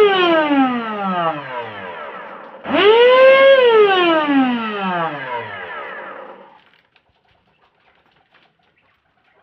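LG 1600 W vacuum cleaner motor, fitted with new non-factory bearings, switched on and off in short bursts. Its high whine is already winding down at first. A little under three seconds in it runs up quickly to full speed, holds for about a second, then winds down in pitch over about three seconds until it stops.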